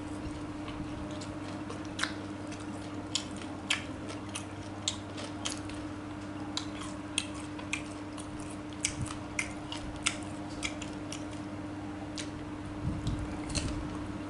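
Close-up chewing of fried stuffed tofu, with irregular sharp wet mouth clicks and smacks, over a steady low hum.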